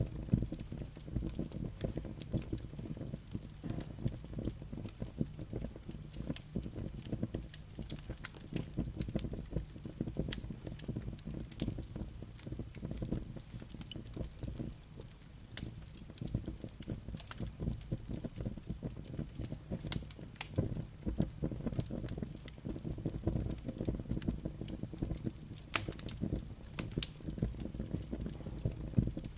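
Wood fire burning in a fireplace: a steady low rumble of flames with many irregular sharp crackles and pops from the burning firewood and embers.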